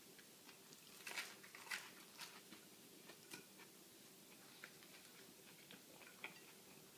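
Faint chewing of a mouthful of grinder sandwich with crisp lettuce: soft scattered crunches and mouth clicks, most of them between about one and two seconds in.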